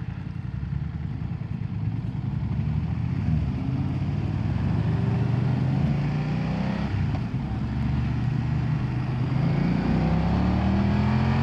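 BMW F900R's 895cc parallel-twin engine pulling under acceleration, its pitch rising, dropping about seven seconds in, then climbing again. Steady wind and road noise run underneath.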